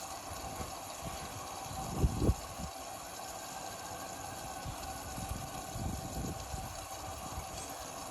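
Indesit Innex XWA 81252 washing machine running with a steady hiss and hum, with two low thumps about two seconds in.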